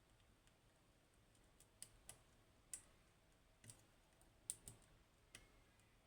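Faint, irregular clicks of a lock pick working the pins inside a Goal Z seven-pin pin tumbler lock, about eight sharp ticks spread over a few seconds.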